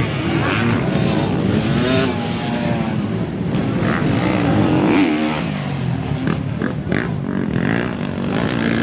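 Motocross dirt bike engines running and revving, several at once, their pitch rising and falling as they accelerate and ease off.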